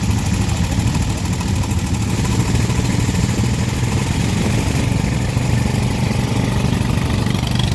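A motor vehicle engine running steadily at an even speed, a constant low hum with a hiss over it, with no revving.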